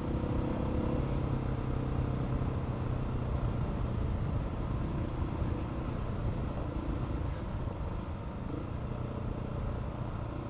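Adventure motorcycle engine running steadily along a rough dirt track, with wind and tyre noise mixed in. The engine note eases off slightly about eight seconds in.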